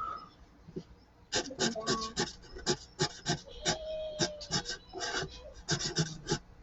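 Marker nib scratching across paper in quick back-and-forth colouring strokes, several a second, starting after a short pause.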